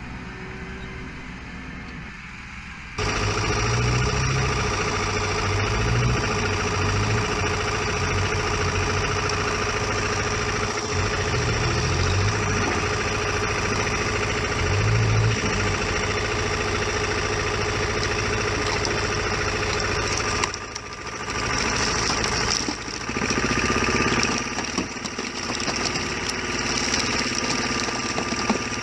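An engine-driven machine running steadily with a constant whine, starting abruptly about three seconds in, with a low throbbing underneath.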